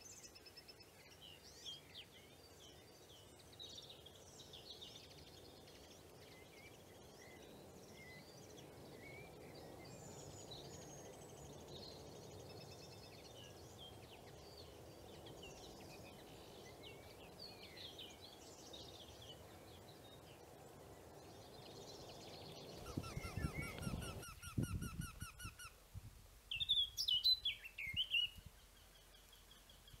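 Small birds chirp on and off over a steady low background noise. About 23 seconds in, a Eurasian wryneck calls: a rapid run of a dozen or so evenly spaced, repeated notes, with a few low thumps alongside. Louder chirps follow near the end.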